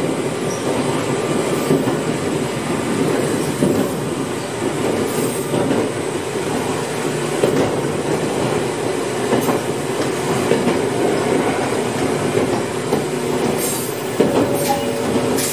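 Gakunan Railway electric train running along the line, heard from inside the car at the front: a steady rumble of wheels on rail with a few sharp clicks over the track.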